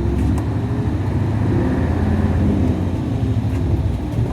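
Nissan Diesel KC-UA460LSN city bus's diesel engine running under way, heard from inside the bus as a steady low drone whose pitch shifts slightly.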